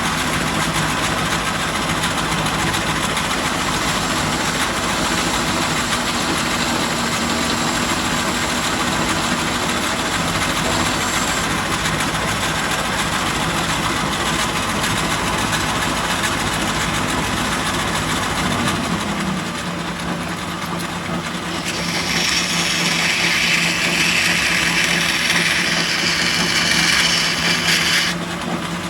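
1944 Logan 210 lathe running under power from its variable-frequency-driven three-phase motor, a steady hum with a hiss over it. The hum dips slightly in pitch a little past halfway. A louder, brighter hiss joins about two-thirds of the way in and cuts off shortly before the end.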